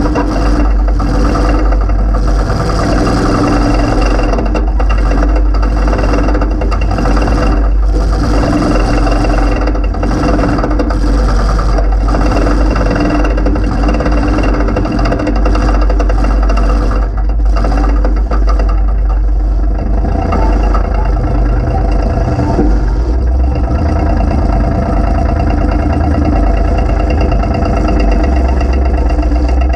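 Demolition derby car's 355 V8 running loud through open upright headers, mostly idling with uneven revs. Irregular knocks and rattles come through in the first half.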